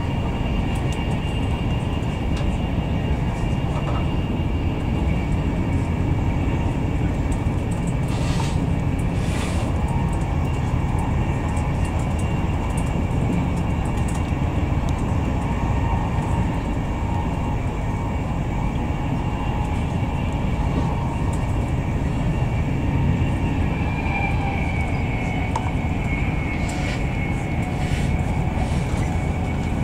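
Steady low rumble of a Class 91-hauled Mark 4 coach running at speed, heard from inside the carriage, with a faint steady high whine. Two brief rushes of hiss come about eight and nine seconds in.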